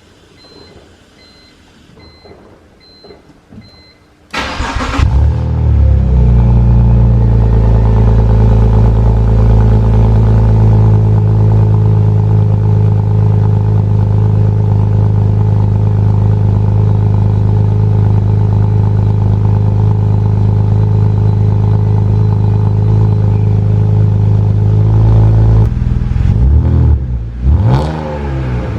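BMW 330Ci ZHP's 3.0-litre straight-six cold-started through a Dinan exhaust: a faint electronic beeping, then the starter cranks about four seconds in and the engine catches and settles into a steady fast idle. Near the end it is revved up and down a couple of times.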